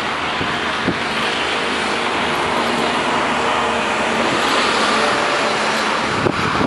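Sanitation truck running with a steady rushing noise, with a short knock near the end.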